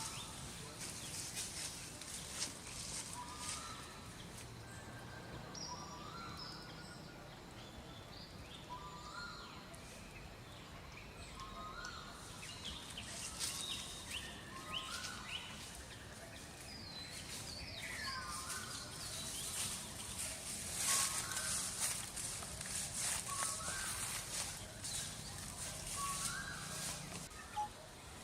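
Forest ambience: an animal gives a short rising call over and over, about every second and a half, amid many light clicks and rustles.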